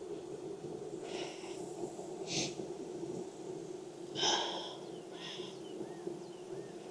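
Honeybee colony buzzing in a steady hum around the open hive, with several short breathy puffs over it, the loudest about four seconds in.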